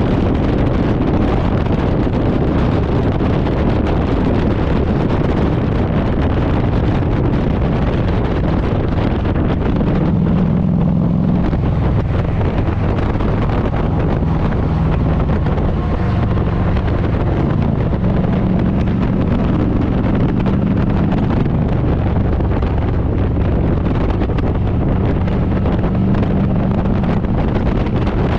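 Harley-Davidson Road Glide's V-twin engine running steadily while riding on the road, with heavy wind noise buffeting the microphone.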